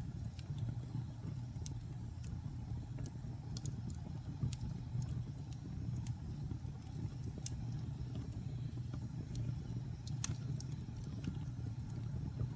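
Log campfire burning: a steady low rumble with frequent irregular sharp crackles and pops from the wood, one louder pop about ten seconds in.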